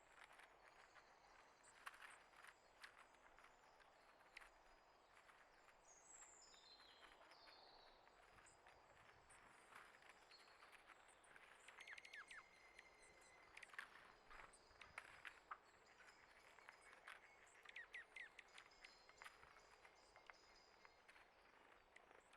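Faint outdoor sound of small birds: a cluster of short falling high chirps about six seconds in, with a thin high held note later, among scattered light clicks and taps.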